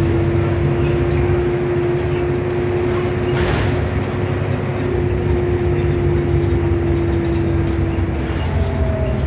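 Inside a moving Renault Agora S city bus: a low engine and road rumble under a steady whine, the strange noise the bus is making. The whine stops about eight seconds in and a brief higher tone follows. A short hiss comes about three and a half seconds in.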